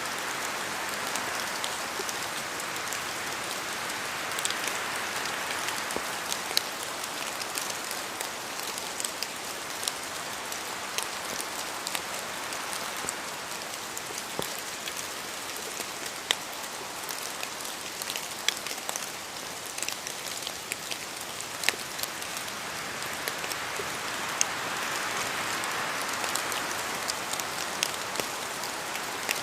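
Steady rain falling in a forest, an even hiss with many individual drops ticking sharply on nearby surfaces. The rush swells gently a couple of times, like gusts of wind moving through the trees.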